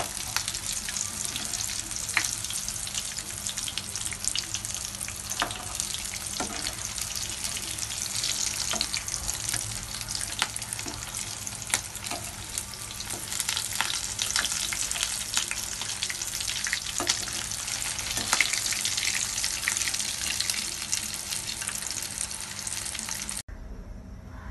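Breadcrumbed chicken drumsticks frying in hot oil in a pan: a steady, dense crackling sizzle, with occasional sharper clicks as a slotted spatula turns the pieces. The sizzle cuts off abruptly about a second before the end.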